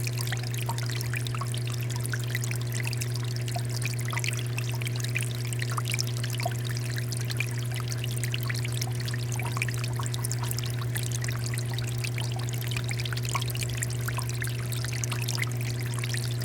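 Water fountain flowing steadily: a continuous pouring and splashing of water, with a steady low hum beneath it.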